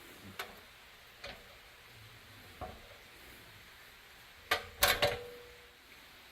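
Sharp clicks and clinks of small metal parts being handled: a few single taps, then a quick cluster of louder clinks about four and a half seconds in. The last clink rings briefly.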